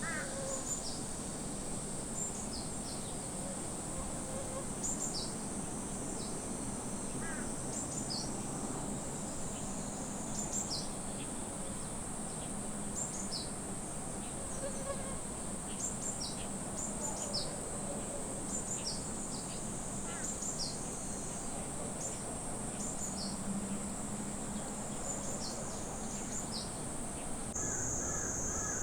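Summer forest ambience: a steady high-pitched insect drone, with frequent short high bird chirps and a few lower calls scattered through it. The insect drone changes pitch about a second before the end.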